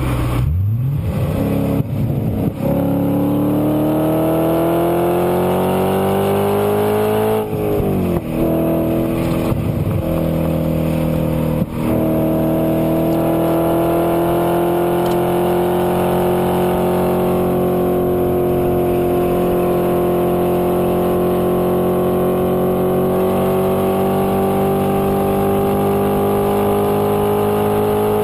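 '08 Audi RS4's 4.2-litre V8 with a Milltek exhaust, heard from inside the cabin, accelerating hard. The revs fall at the very start, then climb until a gear change drops the pitch sharply about seven seconds in. From there they rise slowly and steadily as the car pulls in the higher gear.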